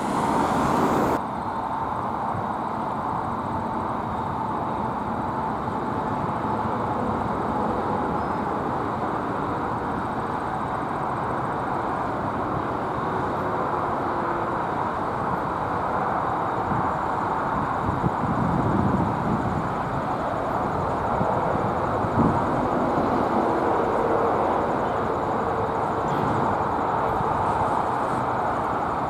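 ALCO RS-1 diesel locomotive running at a distance, a steady even rumble with a faint hum. A louder passage of train noise cuts off about a second in.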